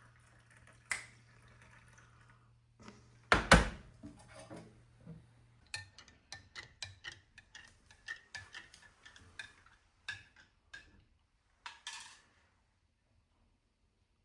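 A spoon clinking against a mug while stirring milk into tea: a quick run of light taps from about six to ten seconds in, with a few more after. A loud clunk comes about three and a half seconds in.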